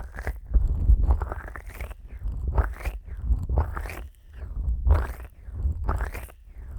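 Fingers slick with petroleum jelly rubbing and massaging the silicone ears of a 3Dio binaural microphone. The strokes are moist and squelchy, come one or two a second, and carry a deep rumble close to the mic.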